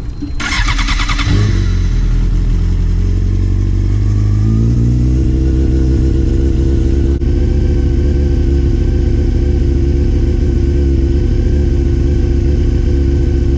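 A vehicle engine: a short rattly burst about half a second in, then the engine note rises over a few seconds and holds at a steady, loud speed.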